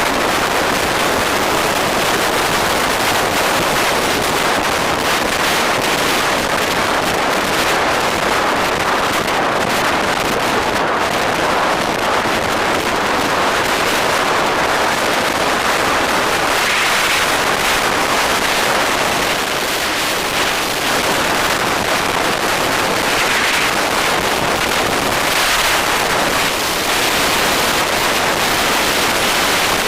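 Steady rush of wind noise on the microphone of a moving motorbike, an even, unbroken roar of air.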